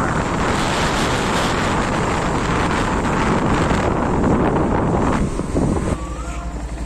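Heavy wind rushing over the microphone of a moving motorbike. About six seconds in it drops away suddenly, leaving a quieter steady low hum.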